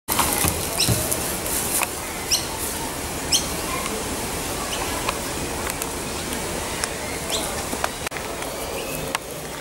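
Small birds chirping: short, sharp rising calls about once a second, over a steady outdoor background hiss.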